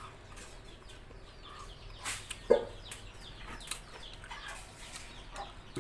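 Close-miked chewing of raw shrimp and pomelo salad: a run of small wet clicks and crackles, with a sharper click about two seconds in. Just after it comes a short, loud voiced sound.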